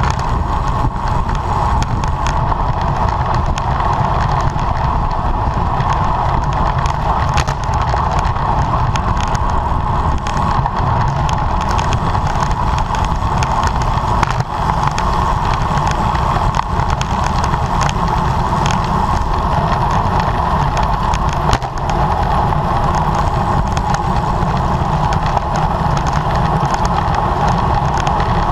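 Steady wind rush on the microphone of a camera riding on a racing bicycle, with low road and tyre rumble and a few faint clicks.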